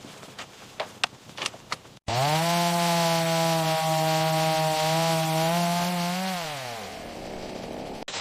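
A few scattered light knocks. Then, about two seconds in, a chainsaw starts abruptly, quickly revs up and runs at a steady high speed. Near the end it winds down.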